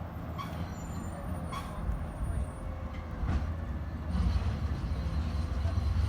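McNeilus ZR side-loading garbage truck on a Crane Carrier LET2 chassis, its diesel engine running steadily, with a few light clicks. The engine grows louder from about four seconds in.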